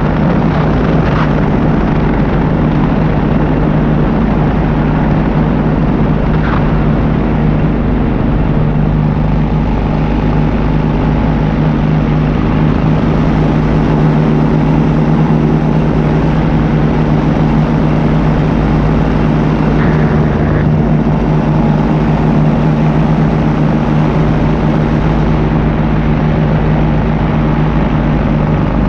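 Paramotor engine and propeller running steadily at cruise power in flight, holding one pitch, with rushing air noise.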